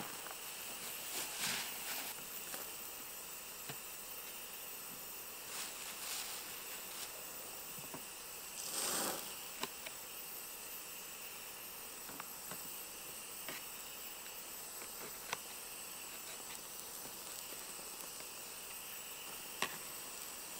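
Faint steady sizzle of food frying on a camp stove, with scattered light clicks and knocks as peppers are cut up on a plate, and a brief rustle about nine seconds in.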